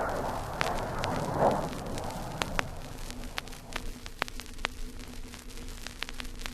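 Vinyl LP surface noise: scattered sharp clicks and pops over a low hiss. The dying rumble of a recorded explosion fades out over the first couple of seconds.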